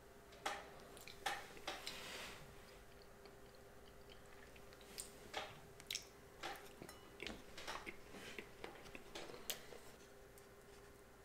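Close-miked chewing of a bite of sushi roll topped with crispy tempura batter: soft, squishy chewing broken by sharp crunches and clicks. The crunches come in two spells, one starting about half a second in and another from about five seconds in.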